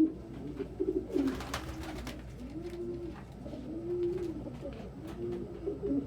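Domestic pigeons cooing: a string of low coos that rise and fall, one after another, the first ones broken into quick stuttering pulses. A short cluster of sharp clicks comes about a second in.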